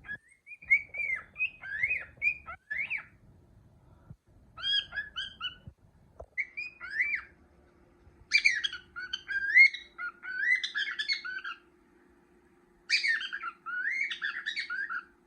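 Pet cockatiel whistling: runs of quick up-and-down whistled notes, in five phrases with short pauses between, the last two the fullest.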